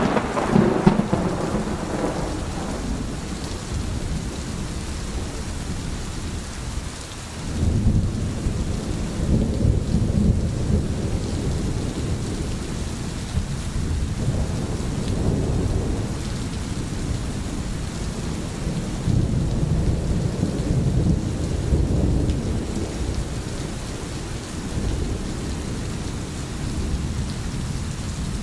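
Steady rain in a thunderstorm. A sharp thunderclap at the very start fades into a rumble, and further low rolls of thunder swell in several times.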